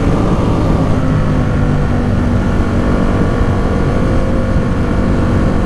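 Ducati Supersport 950 S's 937 cc Testastretta L-twin running at a fairly steady engine speed under way, with wind rush underneath.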